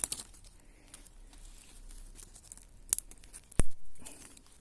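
Small dry sticks and debris being handled: faint rustling with a few sharp clicks, and a louder knock about three and a half seconds in.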